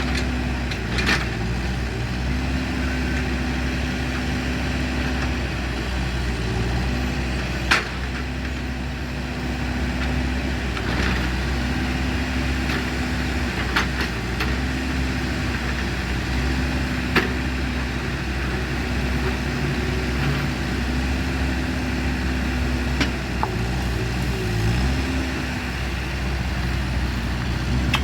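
An engine idling steadily, with a few sharp clicks now and then.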